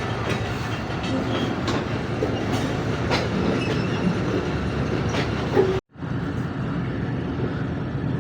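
Passenger train coaches rolling slowly along the track during a shunting move, with steady rumbling and occasional clicks from the wheels passing over rail joints. About six seconds in, the sound cuts out for a moment and then resumes duller.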